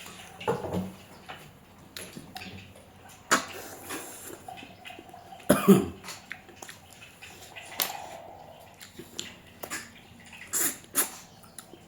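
Close-up eating sounds: short, scattered slurps, smacks and clicks with quieter gaps between them. The loudest comes about halfway through.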